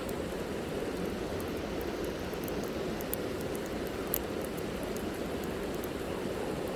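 Campfire burning: a steady rush from the flames with scattered sharp crackles and pops, a couple of them louder midway.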